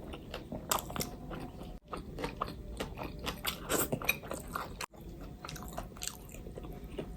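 Close-miked ASMR eating: biting and chewing of spicy curry, rice and fried chicken with irregular wet smacks and crunches. The sound drops out completely for an instant twice, about two and five seconds in.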